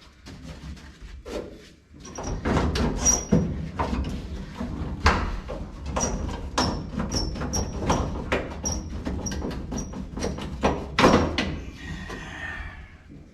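Repeated metallic clanks and knocks, many with a short high ring, as a broken window regulator is beaten loose inside a 1955 Chevy 210's steel door, followed by a brief scraping near the end.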